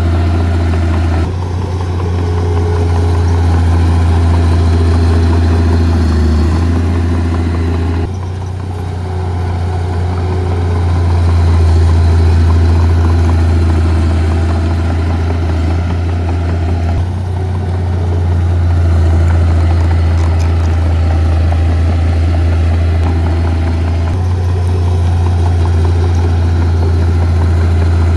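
Heavy diesel engines of a bulldozer and dump trucks running, with a steady deep hum. The sound shifts abruptly several times.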